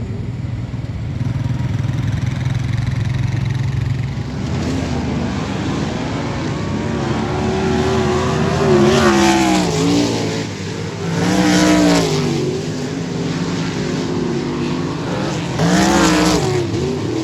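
Sprint cars' V8 engines running hot laps on a dirt oval. Cars pass loudly three times, and the engine pitch rises and falls with each pass.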